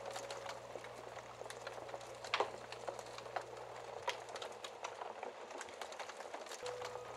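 Wood fire crackling in a fireplace: scattered small pops and ticks, with one sharper pop about two and a half seconds in. A soft piano note fades at the start, and another faint one begins near the end.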